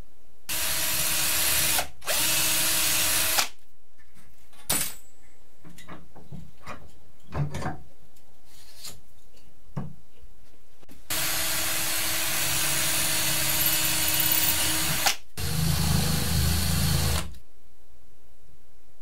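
Electric drill run in four separate bursts, two short ones near the start, a longer one of about four seconds later, then a short one with a deeper rumble, its motor whine steady in each. Scattered knocks and clicks of handling come between the runs.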